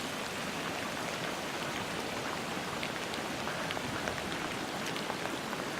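Steady rain falling, with a scattering of individual drops ticking.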